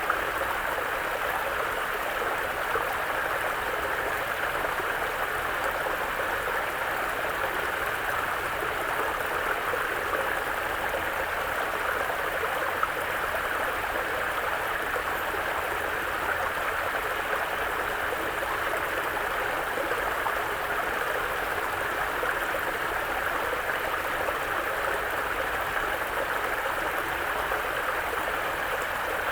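Mountain brook babbling steadily, an even rushing of water with no breaks.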